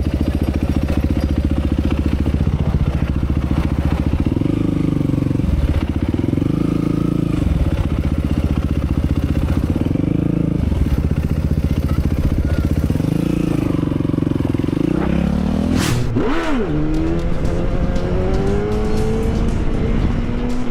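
Motorcycle engine accelerating hard through the gears, its pitch climbing and dropping back again and again. About 16 seconds in there is a sudden sharp noise, after which the engine pitch rises steadily.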